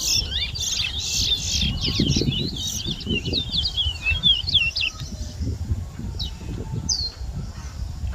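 Caged towa-towa songbird singing a fast run of quick sweeping chirps for about five seconds, then only a few single notes. A steady low rumble sits underneath.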